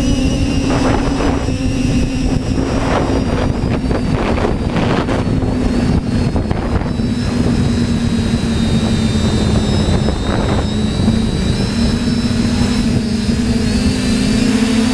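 TBS Discovery quadcopter's electric motors and propellers droning at a steady pitch that wavers slightly as the flight controller corrects against the wind, with gusts of wind buffeting the microphone in several surges over the first half.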